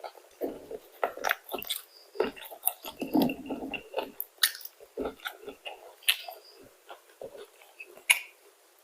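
A person biting and chewing crispy fried food, with irregular sharp crackles and clicks throughout and a louder crack about eight seconds in.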